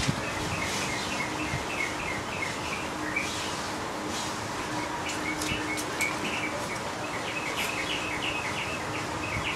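Small birds chirping in quick repeated series throughout, over a steady low hum, with a few light clicks.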